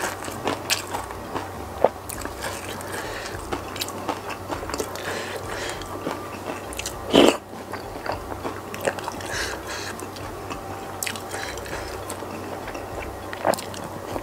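Close-miked chewing and biting of spicy meatball soup, with wet mouth clicks and smacks throughout, and a wooden spoon working the food on a plate. One brief, louder sound comes about seven seconds in.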